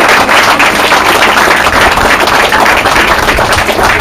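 A crowd applauding: dense, loud, continuous clapping.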